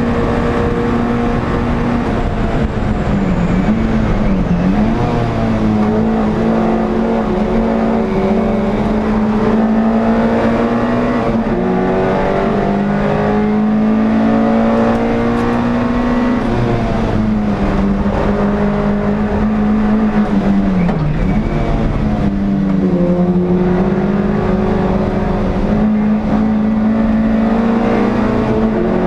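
Onboard sound of an NSU TT race car's air-cooled four-cylinder engine running hard at high revs, held mostly steady, with two brief drops in pitch, around four seconds in and about two-thirds of the way through, as the driver lifts and shifts.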